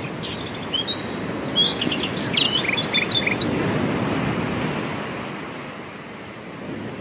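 Surf washing on a beach, with a small bird chirping rapidly over it for the first three seconds or so; then only the wash of the waves, easing off near the end.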